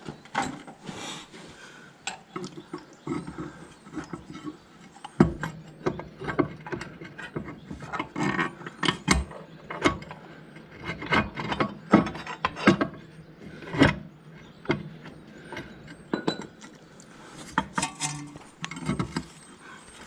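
Hand tools and small steel brake-latch parts clinking, knocking and scraping at irregular intervals as they are worked into place, with several sharper knocks along the way.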